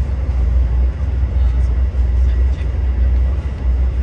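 Steady low rumble and rushing noise inside a VIA Rail LRC passenger car travelling at speed.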